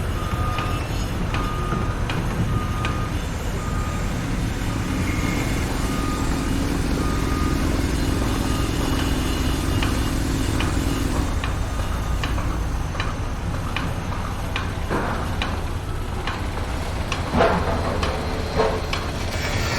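Truck's reversing alarm beeping about once a second over a steady heavy engine rumble: the vehicle is backing up. The beeping stops about two-thirds of the way through, followed by scattered clanks and knocks, the loudest near the end.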